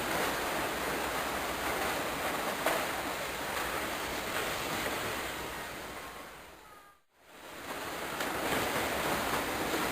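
A steady rushing noise with a few faint clicks. It fades out to silence about seven seconds in, then fades back up.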